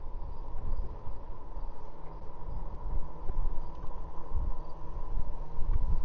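Wind rumbling on a moving e-bike's action-camera microphone, with a steady high whine underneath and faint, regularly repeating insect chirps.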